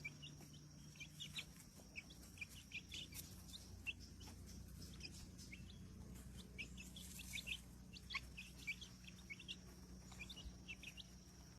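Faint chirping of small birds: many short, quick chirps scattered throughout, over a low steady hum.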